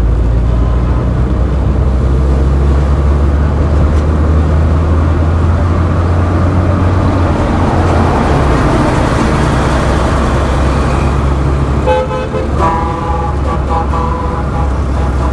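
Road traffic: a steady low engine rumble with a vehicle passing about halfway through, then car horns honking in short repeated blasts from about three-quarters of the way in.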